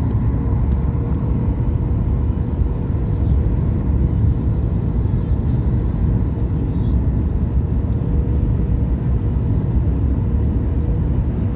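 Steady low rumble of airflow and CFM LEAP-1B engine noise heard from inside the cabin of a Boeing 737 MAX 8 airliner, with a faint steady hum over it.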